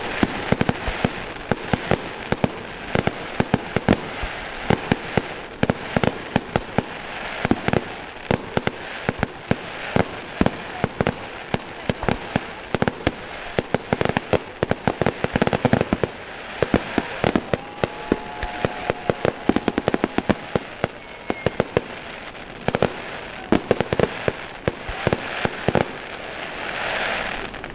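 Fireworks display: a dense, unbroken stream of sharp bangs and crackling reports, several a second, with a brief thin steady tone partway through.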